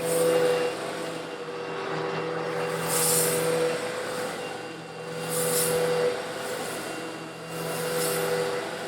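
Eureka vacuum cleaner running steadily with a humming whine while sucking up coarse stone granules. The hissing rush of the granules going up the hose swells four times, about every two and a half seconds.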